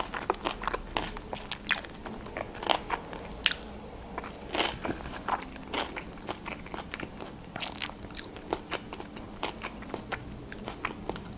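Close-miked chewing of a mouthful of sushi: irregular wet mouth clicks and soft crunches, several a second.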